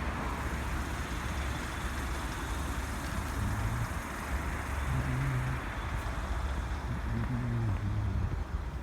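Steady rumble and rushing noise of a train running past at close range, with short low hums rising out of it a few times.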